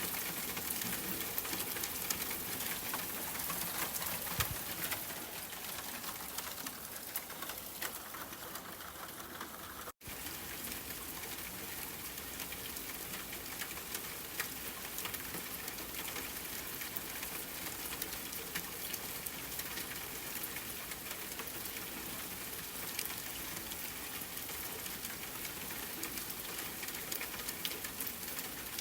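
Steady rainfall with scattered small crackles from a wood fire, an even hiss with fine ticks throughout. The sound drops out for an instant about ten seconds in, then resumes unchanged.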